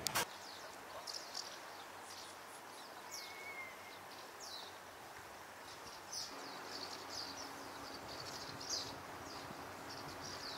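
Birds calling: a scattered run of short, high chirps that slide downward in pitch, over faint background noise. A faint steady hum comes in about six seconds in.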